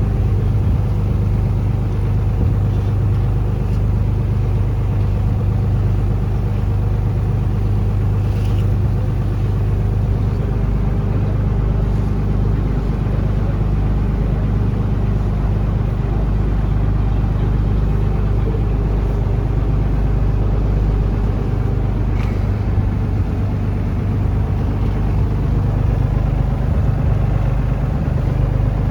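Taxi boat's engine running steadily at cruising speed, a low even drone under a haze of water and wind noise.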